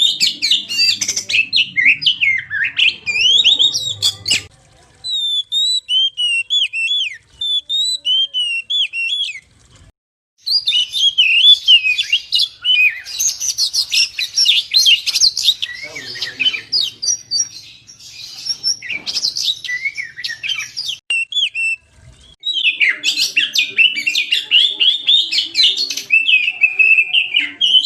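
Oriental magpie-robin (kacer) singing a fast, varied song of whistles and chirps, in long phrases broken by short pauses about 5, 10 and 22 seconds in.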